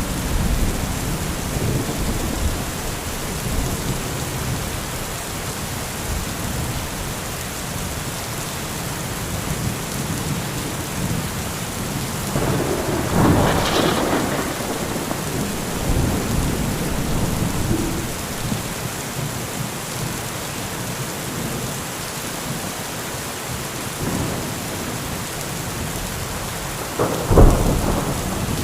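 Steady heavy rain with rolling thunder: a rumble swells about halfway through, and a sharper, louder thunderclap comes near the end.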